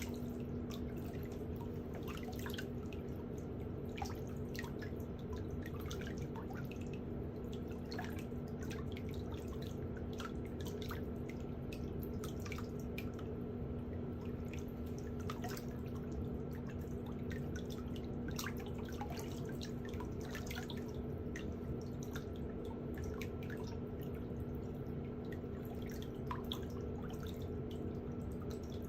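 Small irregular clicks and light scraping of pedicure hand tools working on a toenail, over a steady low hum.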